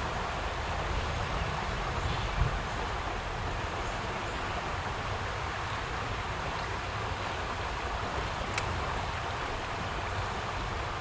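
Steady rush of a small creek's flowing water, with a low rumble beneath it and a soft thump about two seconds in.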